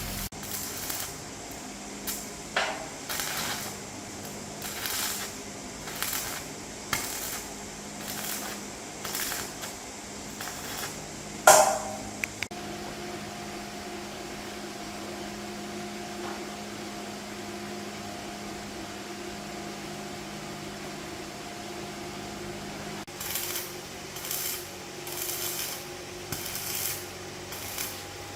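Hand-tool work on metal: a run of short strokes, roughly one a second, with one loud bang about halfway. The strokes stop for about ten seconds, leaving a faint steady hum, and pick up again near the end.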